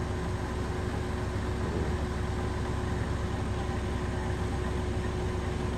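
Steady low machine rumble with a faint constant hum over it, even throughout with no distinct events.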